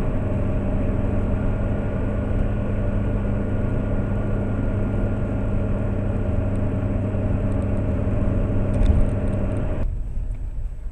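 Steady drone of a Lada Priora driving, engine hum and road noise inside the cabin. It starts abruptly and cuts off abruptly about ten seconds in.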